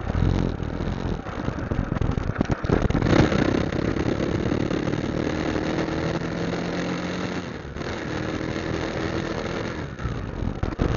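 Motorcycle engine running under a constant rushing noise, with a steady engine hum that holds through the middle of the stretch and dips briefly twice near the end.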